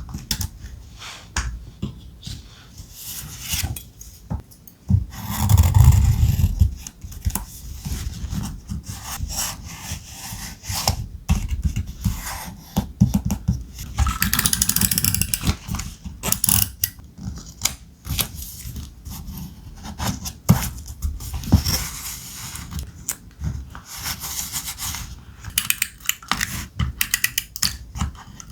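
Thick paper being handled close up: sheets and cut scraps rustling, sliding and rubbing against each other, with many small taps and clicks throughout and a louder scraping rub about six seconds in.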